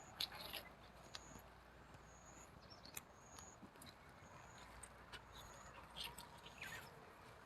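Near silence in the open air: faint, short high-pitched chirps repeating about once a second, with scattered small clicks and rustles.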